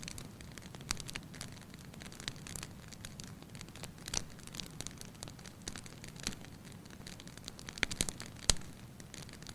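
Fireplace fire crackling: irregular sharp pops and snaps over a low steady rumble, with the loudest pops coming in a quick cluster near the end.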